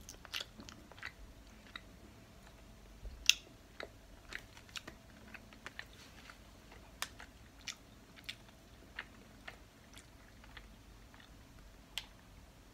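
A person quietly chewing a small candy, with scattered soft mouth clicks and smacks. The sharpest click comes about three seconds in.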